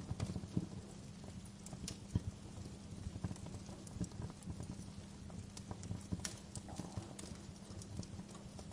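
Wood fire in a fireplace crackling, with irregular sharp pops and snaps over a low, steady rumble. One louder pop comes about two seconds in.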